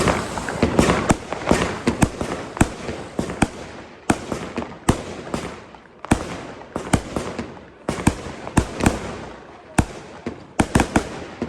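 Fireworks going off: a dense, irregular run of sharp bangs, about two to three a second, with crackling between them.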